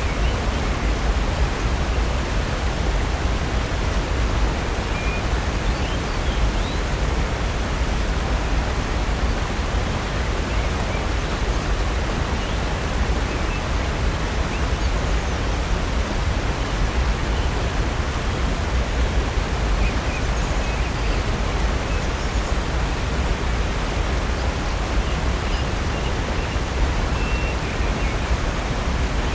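Steady rush of falling water from a waterfall and creek, with a few faint short bird chirps high above it.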